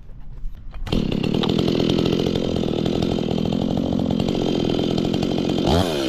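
Two-stroke Stihl chainsaw catching about a second in and then running steadily at idle. Near the end the throttle is blipped, so the engine pitch rises and falls.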